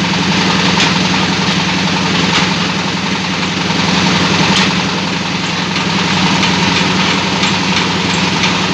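Meat-and-meatball grinding machine running steadily, a continuous motor drone with a few faint clicks.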